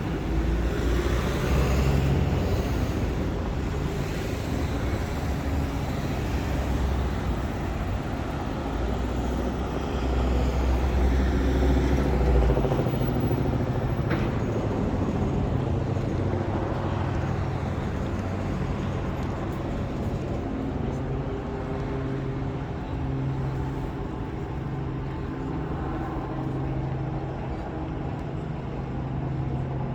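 City road traffic: motor vehicles running and passing, with a deep engine rumble that cuts off about halfway through and a steady engine hum after it.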